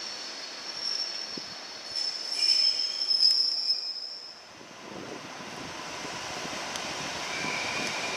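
Train wheels squealing at a station: several shrill, steady tones, loudest in the middle, that end after about four and a half seconds. Then the low, slowly growing rumble of an EN57 electric multiple unit approaching along the platform.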